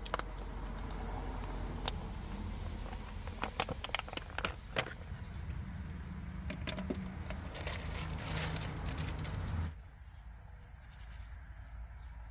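Scattered clicks, knocks and rustling of things being handled over a steady low rumble, which cuts off suddenly near the end to a quieter background with a steady high insect trill.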